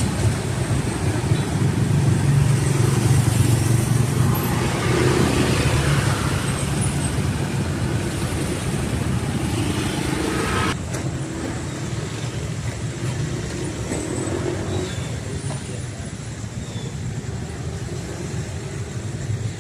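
Road traffic at a railway level crossing: cars and motorcycles passing with a steady mix of engine and tyre noise. The level drops suddenly about eleven seconds in.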